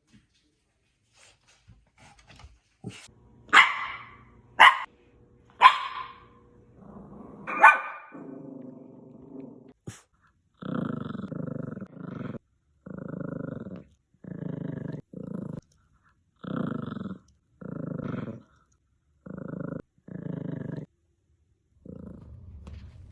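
A dog barks sharply four or five times, then growls in a string of short, even growls.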